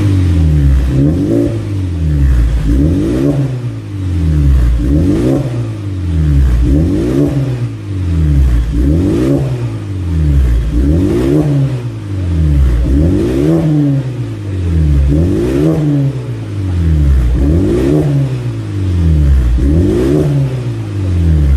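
Kia Sportage R T-GDI's turbocharged petrol engine revved through a custom dual exhaust, blipped again and again, about once every two seconds, each rev climbing and then dropping back.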